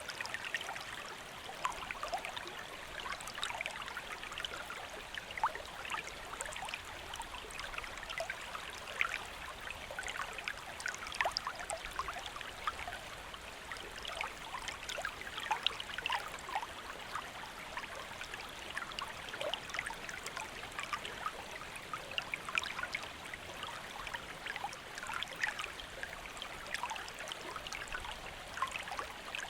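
Small river flowing, a steady rush of water with many small splashes and gurgles.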